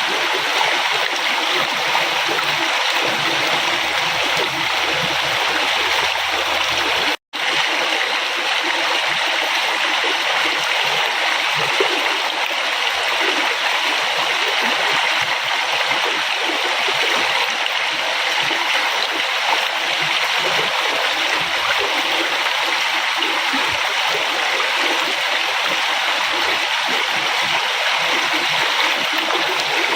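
A river flowing steadily, an even rush of water with small splashing and gurgling in it. The sound drops out completely for a split second about seven seconds in.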